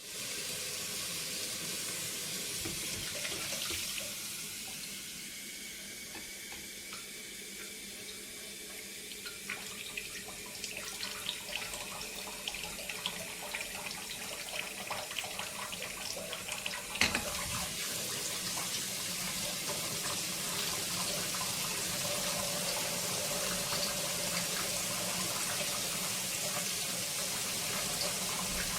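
Water boiling in a borosilicate glass electric kettle: a steady rushing hiss with a scatter of small pops and ticks in the middle, one sharper tick about 17 seconds in, then a fuller, even rush of rolling boil.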